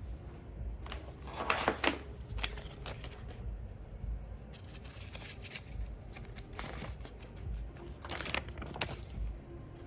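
Irregular rustling, scraping and clicking handling noises, in bunches with quieter gaps; the loudest cluster comes about one and a half to two seconds in, another about eight seconds in.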